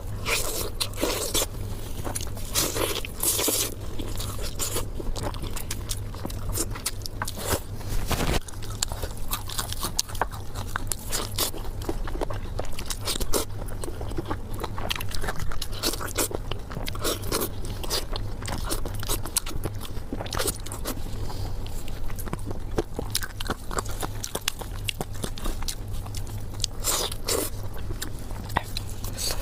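Close-miked biting and chewing of a crispy fried pork cutlet, with irregular crunches several times a second over a steady low hum.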